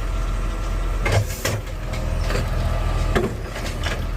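Garbage truck's automated arm lifting and tipping a trash can into the hopper: several sharp knocks and bangs of the can and falling trash over the steady drone of the truck's engine and hydraulics.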